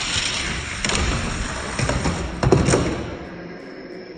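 Two Hot Wheels die-cast cars racing down a track, a steady rolling rumble and rattle of wheels on the track, with several sharp clacks and knocks between one and three seconds in. The rolling then dies away.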